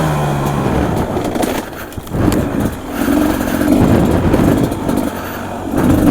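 Beta 250 RR two-stroke dirt bike engine being ridden, revving up and down as the throttle is opened and closed. The revs drop twice, about two seconds in and again near the end, then pick up again.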